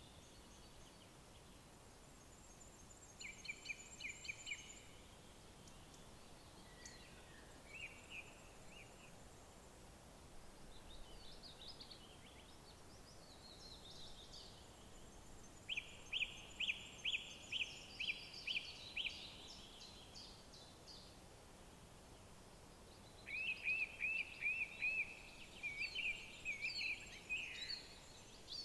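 Several songbirds singing in woodland: short phrases of quick repeated notes, with high thin trills above them. The loudest phrases come about halfway through and again near the end, over a faint steady background hiss.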